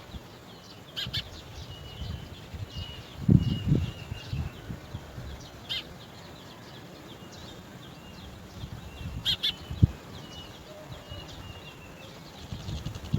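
Birds chirping, with many short chirps and thin high calls throughout and three sharp chips. A few low thuds come about three seconds in and again near ten seconds.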